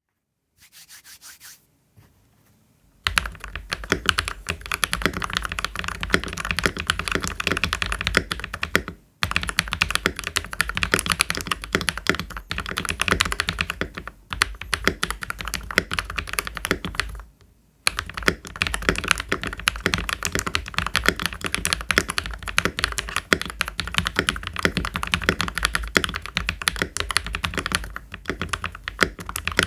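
Keychron V1 mechanical keyboard with KTT Kang White V3 linear switches being typed on fast and continuously, a dense run of key strikes. The typing starts about three seconds in and breaks off briefly three times.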